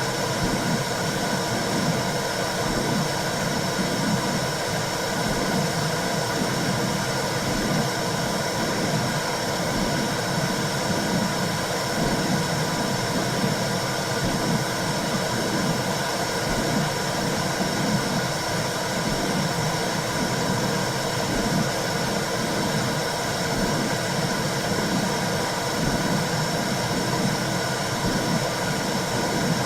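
Womb sound for soothing a newborn: a steady whooshing noise like blood flow, with a slow rhythmic pulse beneath it like a mother's heartbeat.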